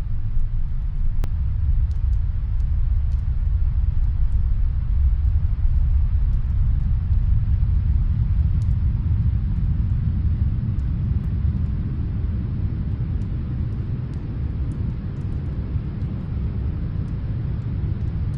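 Steady low rumble of snowstorm wind, swelling slightly midway, with faint sparse crackles of a wood fire heard from another room.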